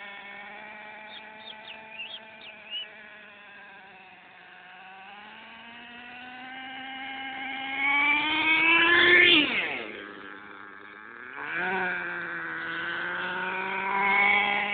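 Electric motor of a HIMOTO MegaP 2S RC monster truck whining under throttle. Its pitch climbs steadily to a peak about nine seconds in, drops sharply as the throttle is released, then rises again.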